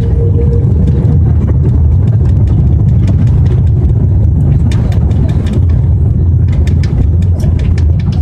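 Airbus A330 airliner cabin during landing: a loud, steady low rumble, with a run of sharp clicks from about five seconds in.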